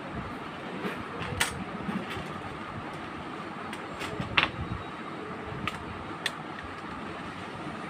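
Scattered sharp clicks and taps from handling printer parts and tools, over a steady background hum.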